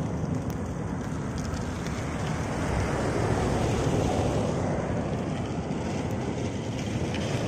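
Wind rushing steadily over the microphone of a camera carried on a moving bicycle.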